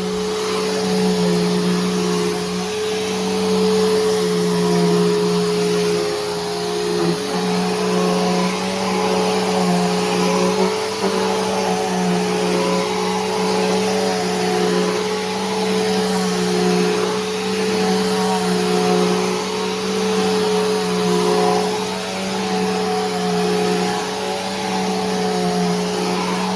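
Bissell Powerforce Helix Turbo upright vacuum cleaner running steadily: a motor hum with airflow rush, swelling and easing a little every couple of seconds.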